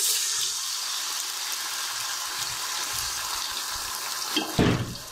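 Wet ginger-garlic paste hitting hot ghee and browned onions in a pressure cooker: a loud sizzle that starts suddenly and holds steady. A short knock near the end.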